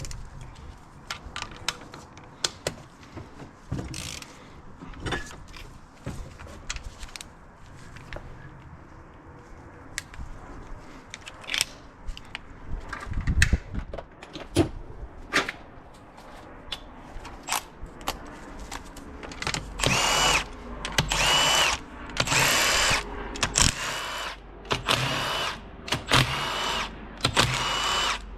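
Scattered clicks and clinks of tools and metal parts, then a power tool (drill or driver) running in short bursts with a steady whine, about seven times in the last eight seconds, as bolts are run out during an engine teardown.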